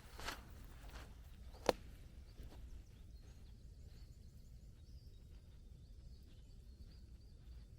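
Quiet forest ambience with a brief rustle near the start and one sharp snap or knock about one and a half seconds in, followed by a faint, wavering high bird call over a low steady rumble.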